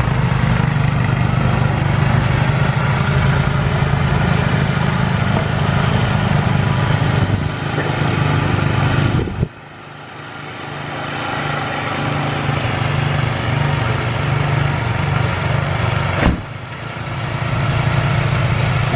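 Engine running steadily with a low, even hum. About nine and a half seconds in, the sound drops sharply and then slowly builds back up; a short click comes near the end.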